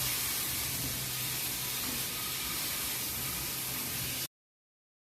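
Chicken sizzling as it fries in a pan, a steady hiss that cuts off suddenly about four seconds in.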